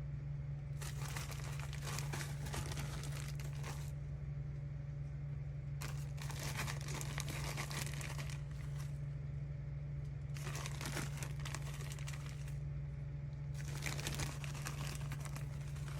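A bag crinkling and rustling as it is handled, in four bouts separated by brief pauses, over a steady low hum.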